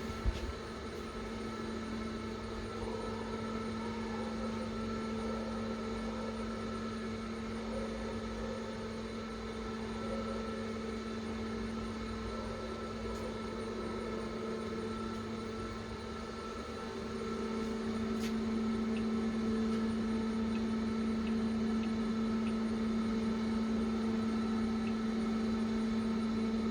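Steady hum of running machinery with a fixed low drone, and one click just after the start. The hum grows louder about two-thirds of the way through.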